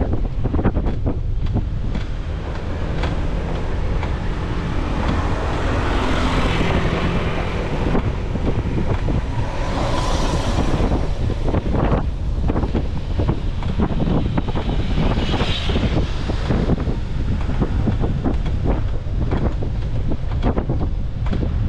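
Wind buffeting the microphone of a camera on a moving bicycle: a steady low rumble with constant gusty thumps, and a few swells of hiss.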